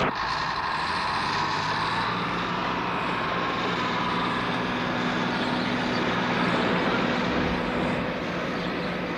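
Steady machine drone with a few low held tones, a sound effect for International Rescue's engine-driven equipment. It begins abruptly and softens slightly near the end.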